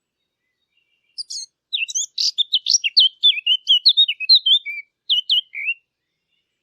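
A Sylvia warbler (the 'fig bird') singing one fast, varied warbling phrase of quick chirps and trills lasting about four and a half seconds, starting about a second in.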